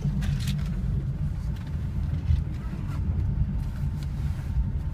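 Low, steady rumble of a passenger railway car running, heard from inside the car, with a few faint clicks and knocks over it.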